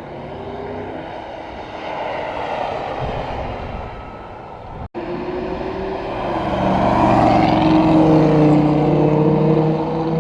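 Car engine running, with a brief break about halfway through, then a louder engine note that swells and stays loud near the end.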